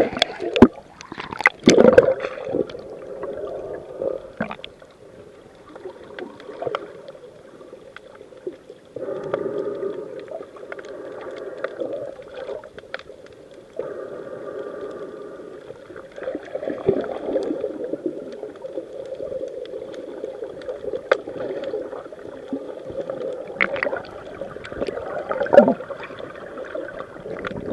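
Muffled underwater noise of water moving and gurgling. A few sharp knocks come in the first two seconds and another near the end.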